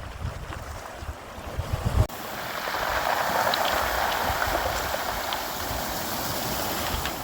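Wind buffeting the microphone with low rumbling gusts; then, after a sudden cut about two seconds in, sea surf: a wave washes in with a swelling hiss and goes on rushing steadily.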